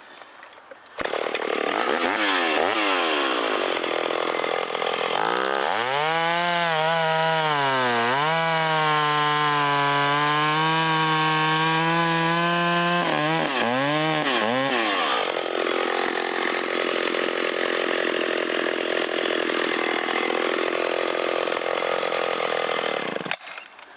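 Stihl 025 two-stroke chainsaw cutting through a log. Its engine pitch dips and recovers repeatedly as it loads up in the cut, then it runs steady until it cuts off suddenly near the end.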